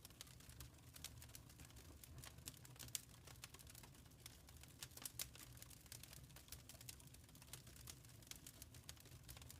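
Faint wood fire crackling: irregular sharp pops and snaps over a steady low rumble, with the loudest pops around three and five seconds in.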